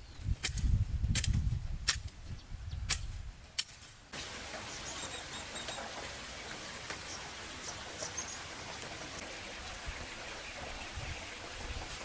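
A few sharp clicks over a low rumble, then an abrupt change about four seconds in to a steady hiss of rain, with faint high chirps over it.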